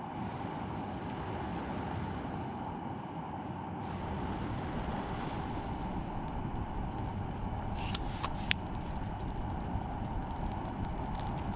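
Campfire burning: a steady rushing noise with a few sharp crackling pops about eight seconds in.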